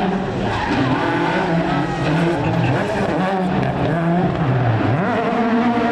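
Rally car engine revving hard, its pitch rising and falling as it goes through the gears, with a sharp drop about five seconds in before it climbs again.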